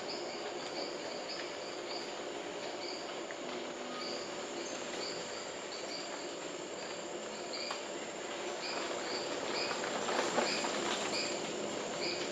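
Tropical forest ambience: a steady hiss of insects with short high chirps repeating irregularly throughout.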